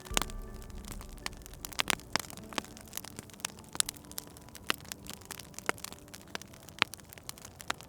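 Fireplace wood fire crackling, with sharp irregular pops over a low hiss and a few louder pops near the start and about two seconds in.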